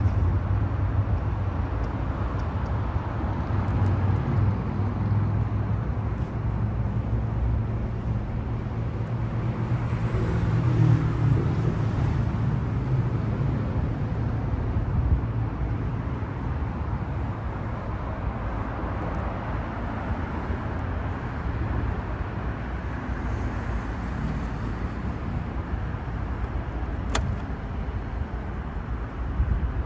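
Yamaha MT-125's single-cylinder four-stroke engine running through an aftermarket BEAMS muffler, mostly at a steady idle, swelling louder briefly about ten to twelve seconds in.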